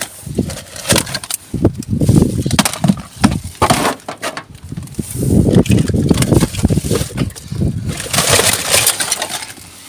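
Rubbish being rummaged through in a dumpster: irregular knocks, clatters and clicks of items being handled, with stretches of rustling.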